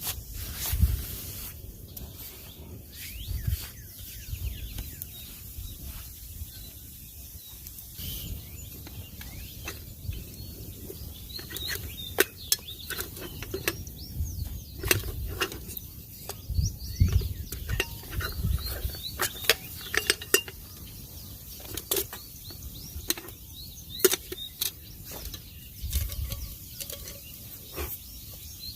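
Scattered sharp clicks and knocks, like camp gear or utensils being handled, with small birds chirping and intermittent low rumbles.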